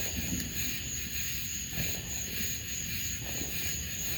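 Steady high-pitched chirring of night insects, with a low, even rumble underneath.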